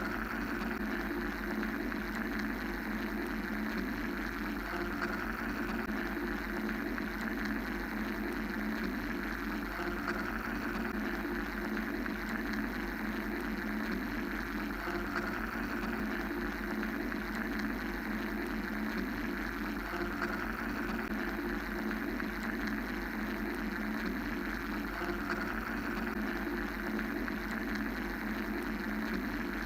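Steady mechanical-sounding white-noise drone: a low hum-like band of noise with a higher hiss that slowly swells and fades every few seconds, over a deep rumble.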